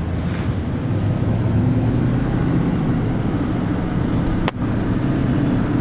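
Vehicle engine running steadily, heard from inside the cab, with a single sharp click about four and a half seconds in.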